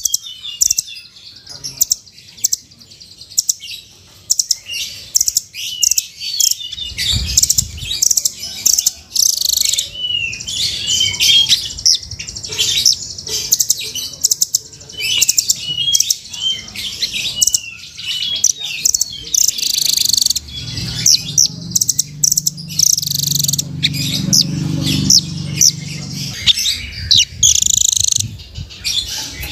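Velvet-fronted nuthatch (rambatan) calling: rapid runs of short, high chirps, repeated over and over, with a low rumble underneath in the second half.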